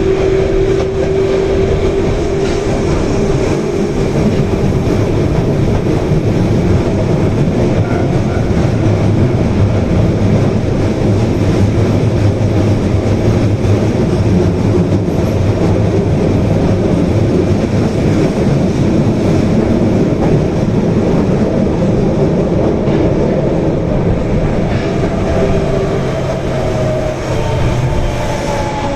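Osaka Metro Tanimachi Line subway train running at speed through the tunnel, heard from on board: a steady rumble of wheels on rail with a faint motor whine. Near the end a higher whine comes in and slowly falls in pitch.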